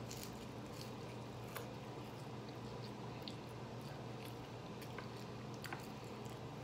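Faint close-up chewing and mouth sounds of someone eating fries, with scattered small clicks and smacks over a steady low hum.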